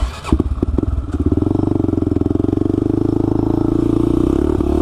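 A few knocks in the first second, then a small dirt bike engine running steadily with a fast, even putter.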